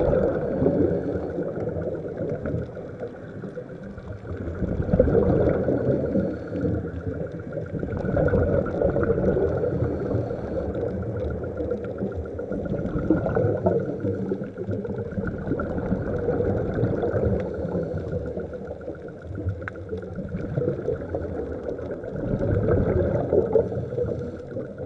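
Muffled underwater sound of a scuba dive: a diver's regulator exhaust bubbles surge and fade about every four to five seconds over a low, steady underwater drone.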